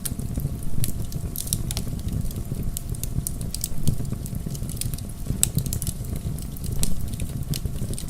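Bonfire burning: a steady low rush of flames with frequent sharp crackles and pops from the burning logs, a few louder pops standing out.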